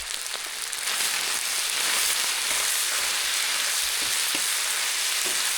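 Korean barbecue meat, bulgogi beef and pork belly, sizzling steadily as it fries on a hot cooking surface. It gets louder about a second in, with a few faint pops.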